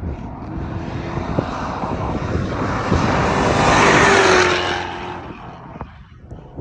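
Lexus SC400's 4.0-litre V8 running while the car drives a dirt road, with a broad rush of tyre, gravel and wind noise that swells to a peak about four seconds in, then eases and drops away near the end.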